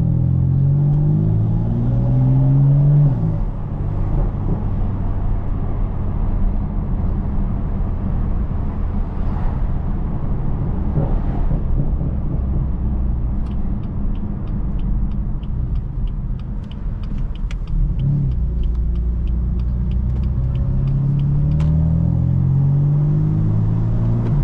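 BMW F82 M4's twin-turbo straight-six engine pulling up through the gears, its pitch rising and dropping back at each shift, then settling into a steady rumble. A quick run of ticks, about four a second, comes midway, and the engine pulls up through the gears again near the end.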